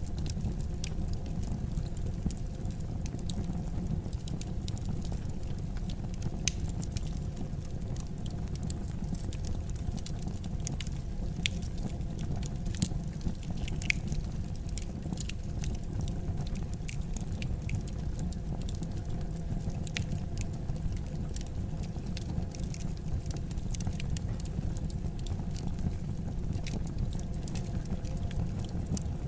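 Wood fire in a fireplace burning with a steady low rumble and scattered, irregular sharp crackles and pops.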